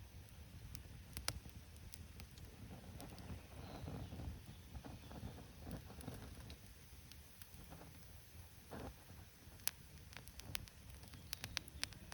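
Small wood campfire crackling, with scattered sharp pops, several close together near the end, over a low rumble.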